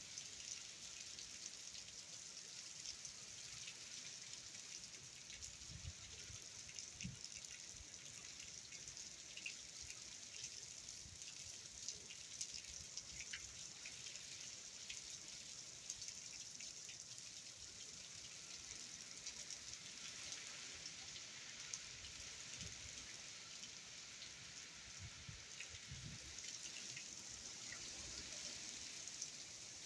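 Steady rain from Hurricane Ian, a faint even hiss with scattered drop ticks. A few brief low thumps come through now and then.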